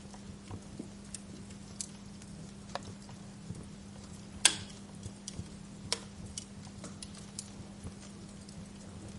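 Wood fire crackling: irregular sharp pops and ticks over a faint hiss, with one loud pop about halfway through. A steady low hum runs beneath.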